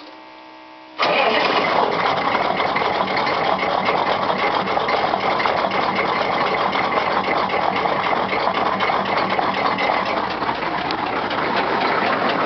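A 6.5-litre turbo diesel V8 in a 1967 Chevy truck fires about a second in, catching at once, and runs on at a loud, steady fast idle. It is a cold start at about zero degrees with the block heater unplugged, after the glow plugs have warmed. The lifter tap that the owner says goes away once the engine warms up is part of the sound.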